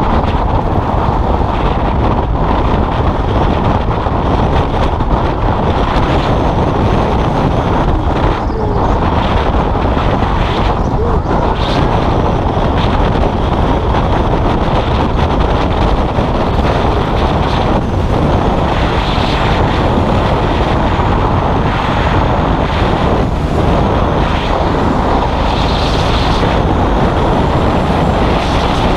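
Custom motorcycle's engine running steadily on the move, mixed with wind rushing over the microphone.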